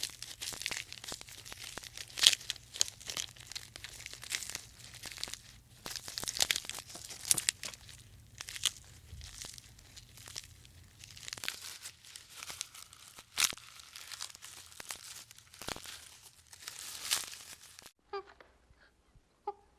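Irregular crunching, crackling and tearing noises with scattered sharp clicks, which cut off suddenly near the end; short pitched animal calls follow.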